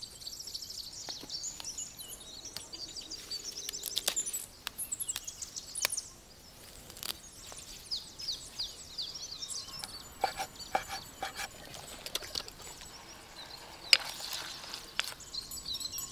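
Small birds chirping in many quick, high calls, with scattered short clicks and rustles; the sharpest click comes about fourteen seconds in.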